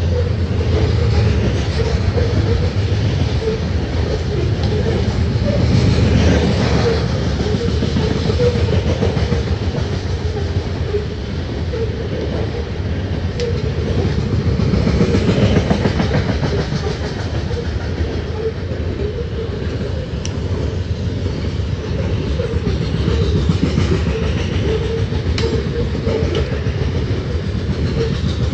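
Open-top hopper cars of a BNSF freight train rolling past at speed: a steady noise of steel wheels on rail, swelling and easing slightly as cars go by.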